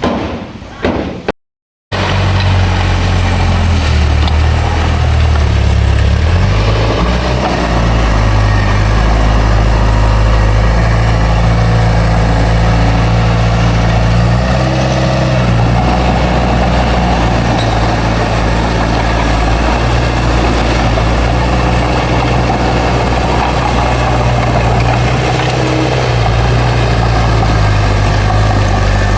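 Bulldozer's heavy diesel engine running steadily, its pitch shifting a few times. A short drop to silence comes just before it starts.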